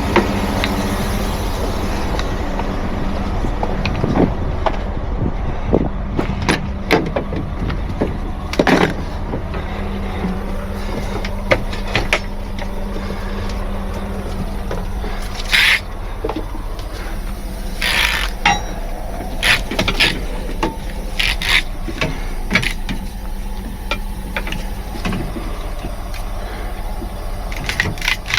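Truck engine idling steadily, with scattered metallic clanks and clicks from the hook-up work and a few short bursts of air hiss.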